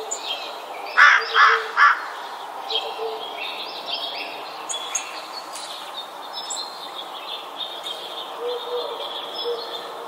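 Wild birds calling: three loud harsh calls in quick succession about a second in, then a running mix of short high chirps and whistles.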